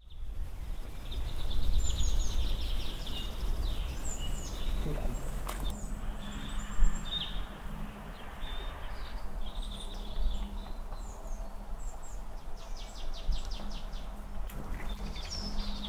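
Small birds chirping and trilling, many short calls and rapid trills, over a steady low rumble. A single thump about seven seconds in is the loudest sound.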